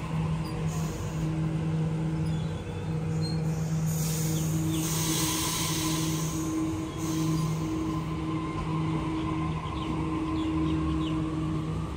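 Sydney Trains double-deck electric train running past the platform: a steady electric hum with wheel and rail noise, and a brief hiss about five seconds in.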